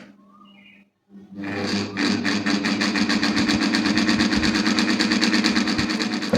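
Electric table fan running with a steady motor hum and a fast, even rattle that starts about a second in. This is the noisy running of a fan with a sound problem at its bush and spindle.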